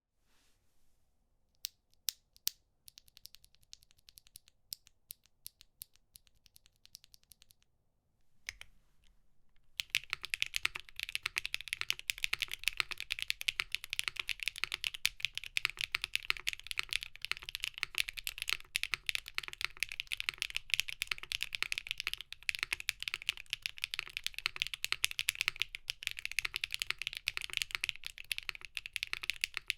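Typing on a Geon F2-60 mechanical keyboard fitted with HMX Sugar Rush switches (POM stem, PA12 top and PA-2 bottom housing, 55 g springs). A handful of separate key presses come first, then fast, continuous typing starts about ten seconds in. The sound is bright and clacky.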